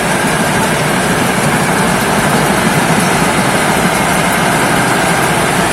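Thai Seng rice combine harvester running steadily at work, its diesel engine and threshing machinery giving a loud, even mechanical noise.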